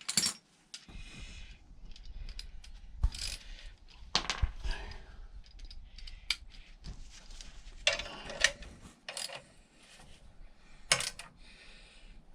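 Irregular metallic clicks and clinks of a wrench working on a scooter exhaust's mounting nut as it is done up, with a few sharper metal knocks.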